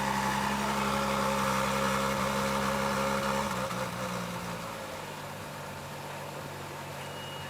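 Car engine idling steadily, then dropping away about four seconds in, leaving a quieter low steady hum.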